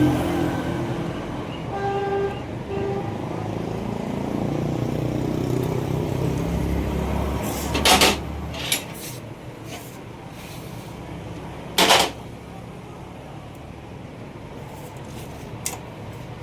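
Motor traffic running, with two short horn toots about two seconds in and two loud sharp bangs, about eight and twelve seconds in.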